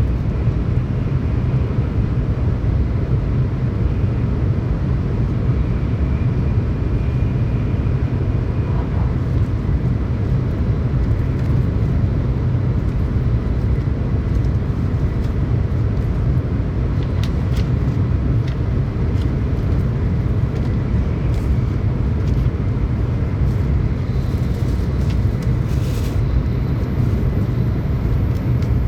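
Cabin noise of a Tokaido Shinkansen train running steadily: a constant low rumble of wheels and running gear, with a few faint clicks in the second half.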